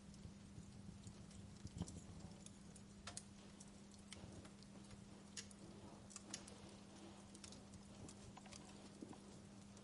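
Wood fire crackling in a fireplace: irregular sharp snaps and pops, a few louder than the rest, over a faint hiss and a low steady hum.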